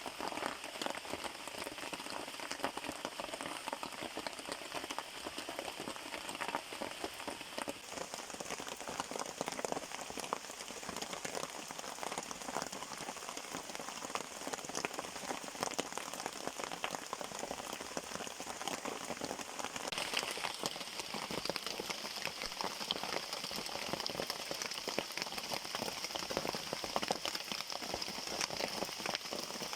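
Rain falling steadily, a dense patter of drops hitting a surface. About two-thirds of the way through, a steady high hiss joins it.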